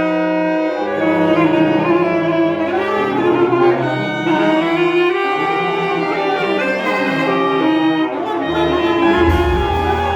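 A large improvising ensemble playing live, with bowed strings most prominent in layered held and shifting notes. A deep low note comes in near the end.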